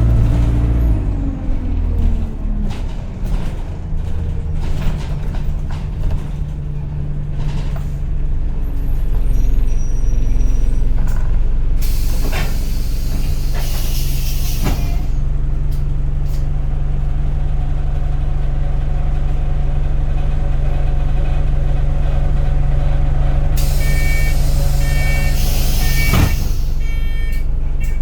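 Single-deck Alexander Dennis Enviro200 bus heard from inside the cabin: the engine winds down in the first second and then runs steadily at low revs. Air hisses out in loud bursts around the middle and again near the end, when a run of short high beeps sounds.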